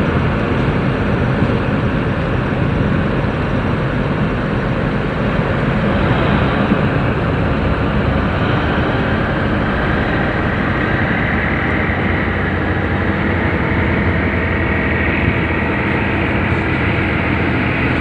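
Tugboat diesel engine running steadily and loud, with a higher whine coming in about halfway.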